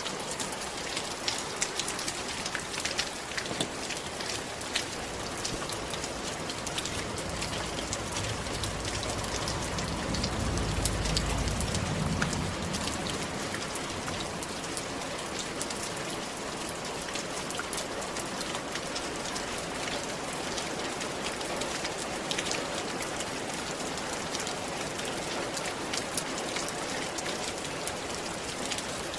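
Rain falling on a roof: a steady hiss dotted with many individual drop ticks. About ten seconds in, a low rumble swells and fades away.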